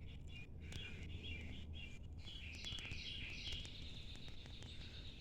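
Small songbirds chirping and twittering in quick runs of high notes, busiest about two seconds in, over a steady low rumble.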